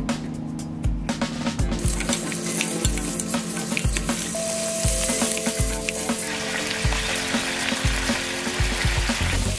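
Chicken pieces frying in cooking oil in a frying pan, a steady sizzle that starts about two seconds in, with small clicks and scrapes as the pieces are stirred.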